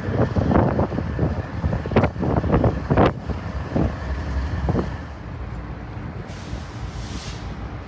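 Freight cars rolling past on steel rails: a low rumble with the wheels clanking and knocking over rail joints, and several loud bangs about two and three seconds in. In the second half the rumble is steadier and quieter as a container train rolls by, with a brief hiss near the end.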